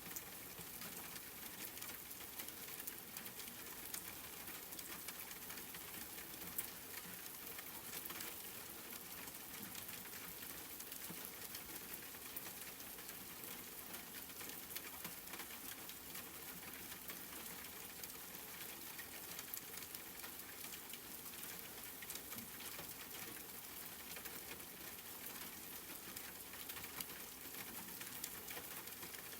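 Steady rain with fine pattering drops, an even hiss dotted with small ticks of individual drops.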